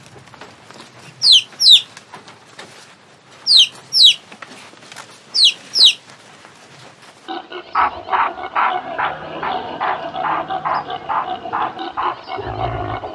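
Domestic chicks peeping: short, high chirps that fall in pitch, coming in pairs about every two seconds. About seven seconds in, a different, denser run of rapid repeated sounds takes over.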